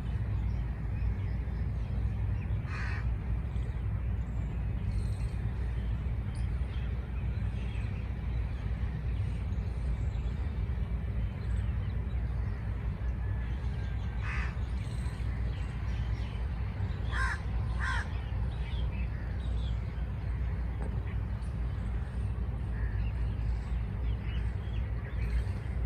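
Birds calling outdoors, a few short harsh calls scattered through, two of them close together about two-thirds of the way in, over a steady low rumble.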